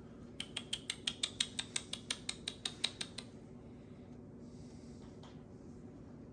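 A parrot making a quick run of about seventeen sharp clicks, about six a second, lasting some three seconds and then stopping.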